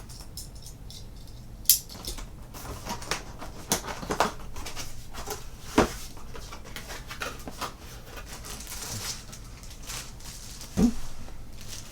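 Cardboard box and plastic packaging being opened and handled: crinkly rustling with scattered clicks and a few louder knocks as items are taken out.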